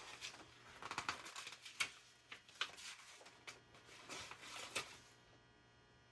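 Faint handling noise: a string of small clicks and rustles from parts being handled, stopping about five seconds in.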